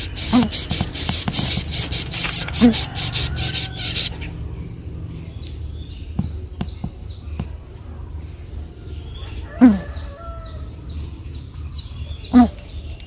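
Birds calling: short high chirps repeated several times a second, with a few louder low falling calls at intervals. A rapid high buzzing fills the first four seconds and then stops.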